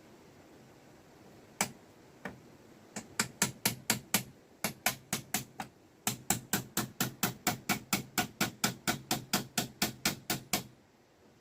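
Hammer blows: two single strikes, then two fast, even runs of strokes at about three to four a second, with a brief pause between them.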